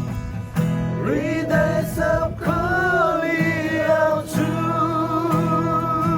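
Christian worship song: a voice carries a slow melody with vibrato over steadily strummed guitar chords, one long note held near the end.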